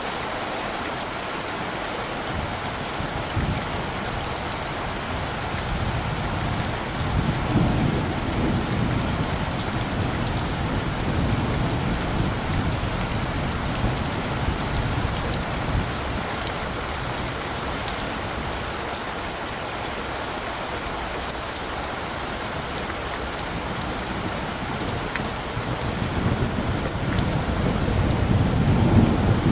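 Steady rain falling, with fine drop patter, and low thunder rumbling underneath that swells about a quarter of the way in and builds again near the end.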